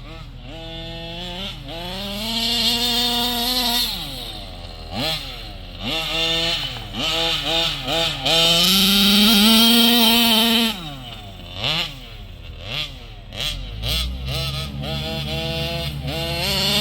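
A 70cc SCZ two-stroke engine in a large-scale radio-controlled car, revved hard in repeated throttle blips, its pitch rising and falling. It is held at full revs for about two seconds early on and again in the middle, then settles to a steadier, lower running note near the end.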